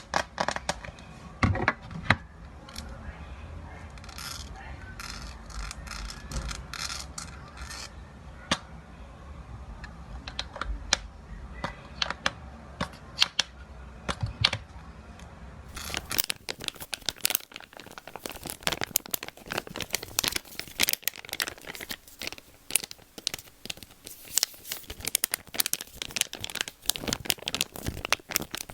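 Close-miked ASMR trigger sounds: a dense run of small crackling clicks and taps, with a low rumble under the first part. About halfway through the sound changes abruptly to a brighter, denser crackling.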